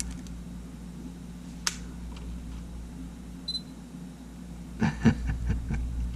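Sony A7 mirrorless camera's shutter being tested: a single click, a short electronic beep, then a rapid cluster of mechanical clicks and rattles as the shutter fires about five seconds in, with another beep at the end. The shutter sounds rough and buzzy because sand has got into the mechanism.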